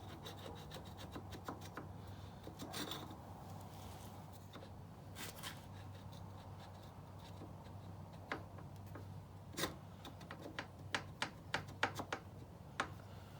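Motorcycle brake pads, shim and pin being worked by hand into the rear brake caliper: scattered light metal clicks and handling sounds, coming thick and fast over the last few seconds, over a steady low hum.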